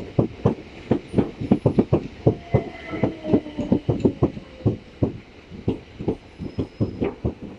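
Southern Class 377 Electrostar electric multiple unit running into the platform, its wheels clacking over the rail joints in an irregular run of sharp clicks, several a second. A faint whine falls slowly in pitch underneath.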